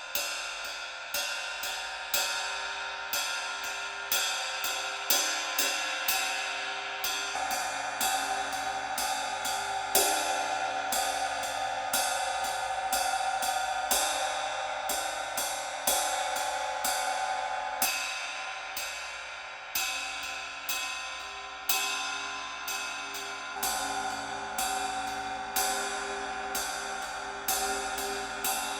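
Zildjian 22-inch A Custom ride cymbal played with a stick in a steady ride pattern, its wash ringing on between strokes, with a louder accented stroke about once a second.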